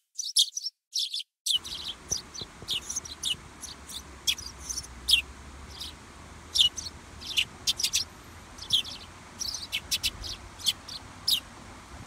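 Small birds chirping, a run of short, sharp, high chirps coming irregularly, sometimes several close together. About a second and a half in, a faint steady outdoor background comes in beneath them.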